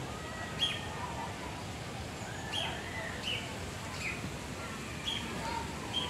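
Wild birds chirping: short, sharp high chirps repeating about once a second, with a few fainter, lower whistled notes.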